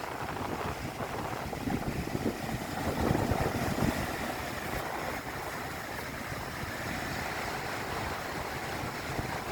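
Strong wind buffeting the microphone, with waves breaking on the shore; the gusts are strongest a couple of seconds in.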